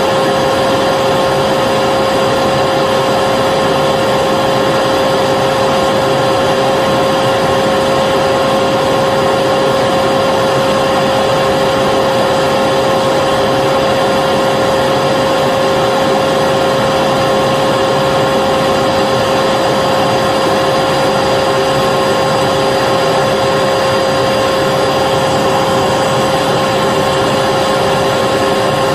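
Vacuum cleaner running continuously: a steady motor whine over rushing air, unchanging in pitch and level.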